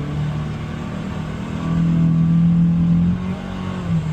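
Polaris Xpedition UTV engine running under throttle at a fairly steady pitch. It gets louder about a second and a half in and eases off again about a second later.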